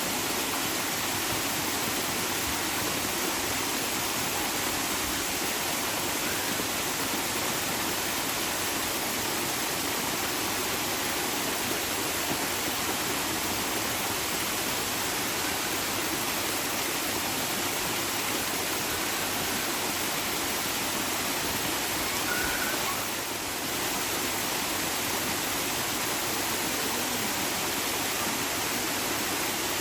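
Rushing water, a steady, even hiss of flowing water like a stream or small waterfall, with a slight brief dip in level about three quarters of the way through.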